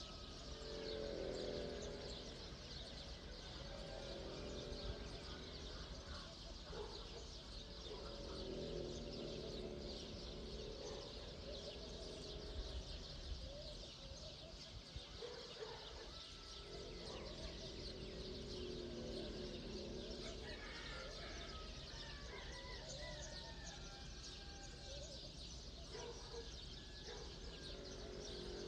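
Outdoor morning ambience: a steady chorus of small birds chirping, with lower drawn-out calls coming and going every few seconds.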